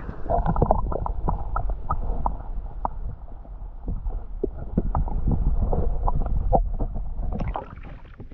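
Strong wind buffeting the microphone: a loud, muffled low rumble with many crackles, easing off near the end.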